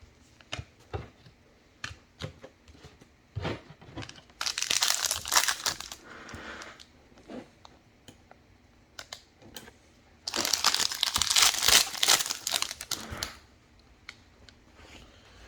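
Trading-card pack wrappers being torn open and crinkled by hand, in two long bursts of crinkling about four and ten seconds in, with small clicks and taps of cards being handled in between.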